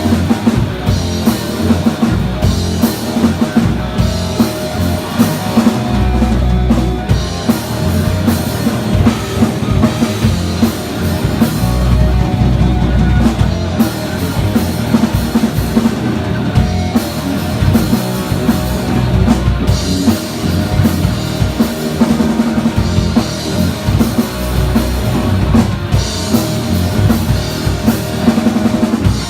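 A metal band playing live in rehearsal: distorted electric guitars, bass guitar and a drum kit with bass drum.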